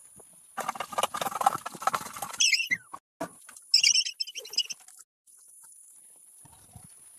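Dense rustling and pattering for about two seconds, like birds scratching and pecking in litter, followed by a few short high chirps from poultry.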